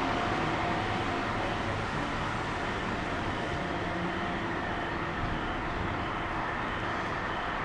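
A train running through the station on its rails: a steady rumble and rush of wheel noise that slowly fades.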